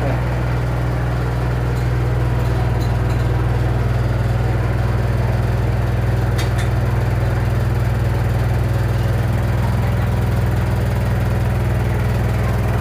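Samsung washer-dryer running with a loud, steady low drone: the abnormal noise the machine is making. A couple of brief clicks about six seconds in.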